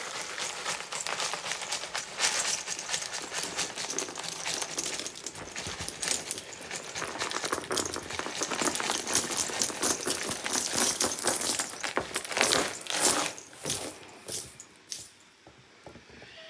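Dry crunch mix being poured and scattered onto carpet: a dense rattling patter of many small grains landing, thinning to a few scattered ticks near the end.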